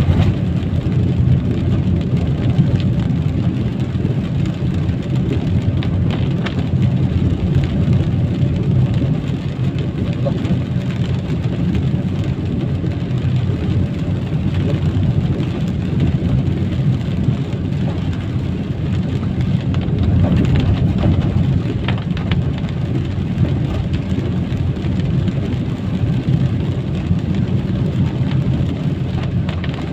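Steady low road and engine noise of a vehicle driving on a wet street in the rain, with rain noise over it.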